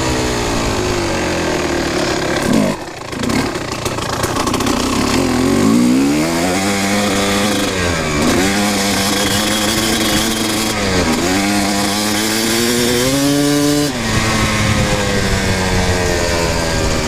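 Kawasaki KX250 dirt bike engine under way, its pitch climbing as it accelerates and dropping back three times as it shifts up, then holding steady near the end.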